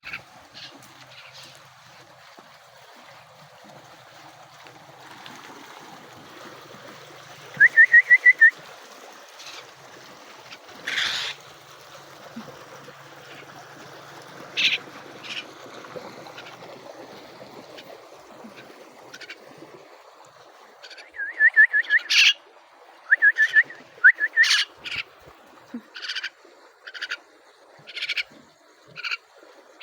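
Myna calling: several quick runs of five or six rising chirps, then single short sharp calls about once a second near the end.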